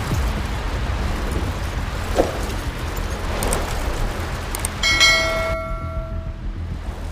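Strong wind buffeting the microphone in a sandstorm, a steady rushing noise with low rumble. About five seconds in, a bell-like chime rings out and fades over a second or so.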